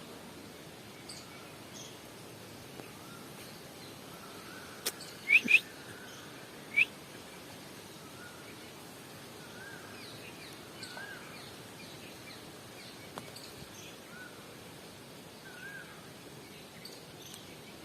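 Outdoor ambience with birds chirping: three or four short, sharp, rising chirps about five to seven seconds in, and fainter warbling notes scattered through the rest over a steady background hiss.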